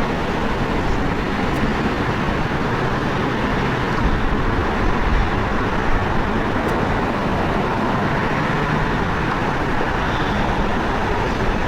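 Steady, even roar of road traffic and distant jet airliner engines, with no distinct events.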